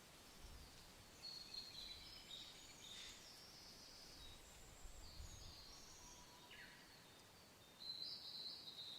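Faint birdsong: a run of short, high chirps and trills, a falling whistle, then another burst of calls near the end, over a soft, low wind.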